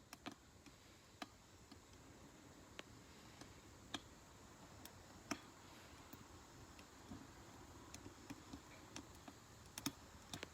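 Wood fire burning in a Solo Stove Ranger fire pit: faint, irregular crackles and sharp pops over a soft steady hiss, with a few louder snaps at irregular moments.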